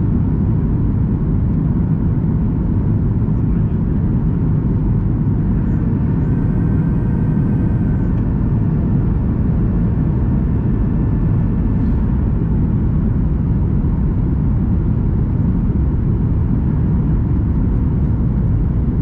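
Steady low roar inside the cabin of a Boeing 737 MAX 8 airliner on descent: engine and airflow noise.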